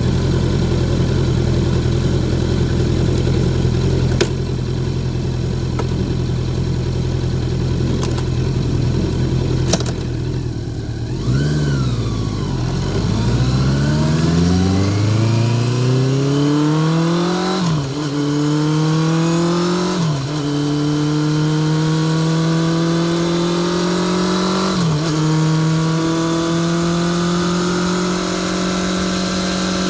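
Honda CBR650R inline-four with a Spark titanium exhaust running at a steady engine speed, then dropping briefly before accelerating hard. The note rises through the gears with three quick upshifts, each a sudden drop in pitch before it climbs again, and settles at a higher steady speed near the end.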